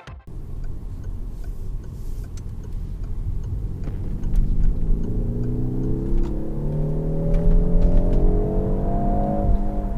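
Peugeot 308 GT's turbocharged 1.6-litre four-cylinder heard from inside the cabin, accelerating hard with the revs climbing steadily over road rumble, with a gear change near the end.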